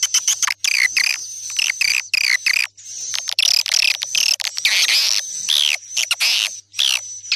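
Swiftlet lure call: a dense chorus of high chirps and buzzy twittering trills with many short down-sweeping notes, broken by a couple of brief pauses. This is the call recording played to draw swiftlets into a nesting house.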